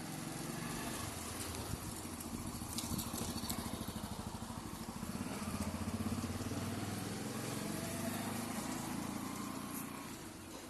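A small engine running, its pitch drifting up and down a little, over a steady rush of flowing water.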